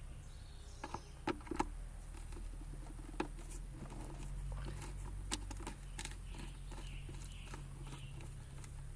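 Scattered small clicks and scratchy ticks of hand-tool work: a screwdriver loosening the worm-drive hose clamp on an ATV's air filter box. A low steady hum runs underneath.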